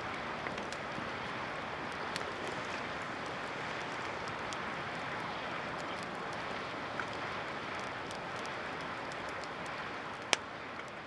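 Wood campfire burning well on dry wood: scattered crackles and sharp pops, the loudest about ten seconds in, over a steady rushing hiss.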